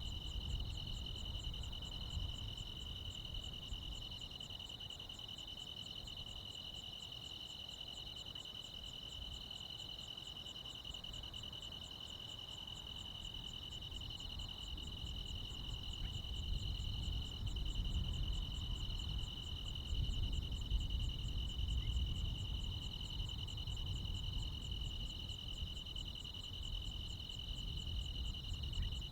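Crickets and other insects chirring steadily in a rural summer night, at least two high continuous trills plus a higher, finely pulsing one. A low rumble sits underneath and grows a little louder in the second half.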